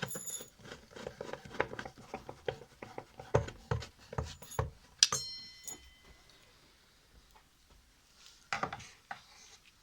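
Small metal clicks, taps and knocks of screws being fitted into a washing machine's gearbox mounting, with a short metallic ring about five seconds in and a few more knocks near the end.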